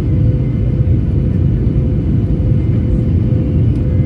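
Steady low rumble of a jet airliner's engines heard inside the passenger cabin, with a steady hum running through it.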